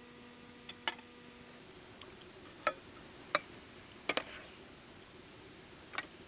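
Cookware and utensils being handled: a scattering of sharp clicks and knocks, a few close together, about a second or so apart. A faint steady hum stops about a second and a half in.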